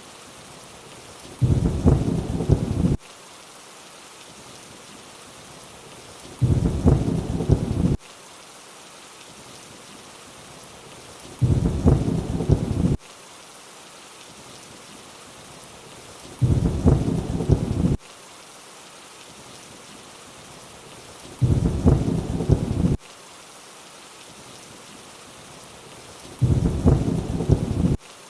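Steady rain hiss with a short low thunder rumble that comes six times, once every five seconds, each lasting about a second and a half and cutting in and out abruptly. The identical, evenly spaced rumbles mark a looped thunder sample laid over the rain.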